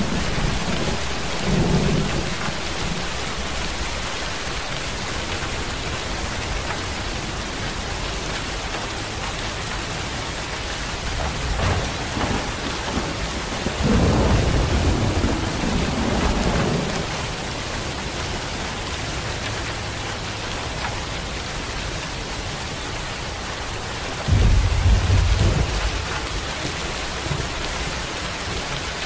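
Steady rain with thunder rumbling: a low rumble about two seconds in, a longer one in the middle, and the loudest, starting suddenly, near the end.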